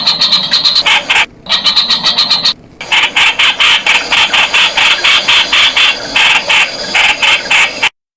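Streak-eared bulbul giving a rapid run of harsh repeated calls, about five or six notes a second, with two brief breaks in the first few seconds.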